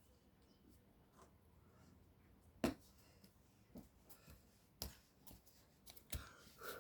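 Near silence broken by three faint, sharp knocks, a second or two apart.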